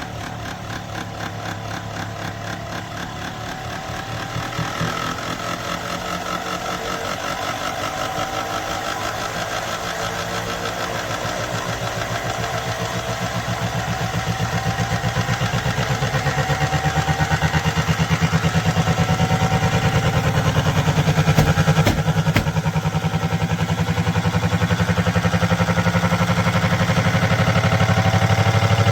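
LG dual-inverter window air conditioner running, its tones slowly rising in pitch and growing louder as it speeds up, with a fast rhythmic rubbing beat throughout. The owner blames the rubbing on the unit's sagging, warped plastic.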